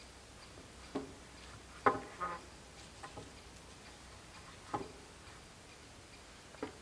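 A few scattered light knocks and clicks at uneven intervals. The loudest, about two seconds in, rings briefly and is followed at once by a second knock.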